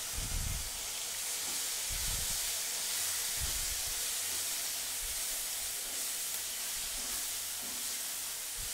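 Chopped tomatoes and broad beans sizzling in hot oil in a nonstick frying pan: a steady frying hiss. A wooden spatula stirs through them, with a few soft knocks.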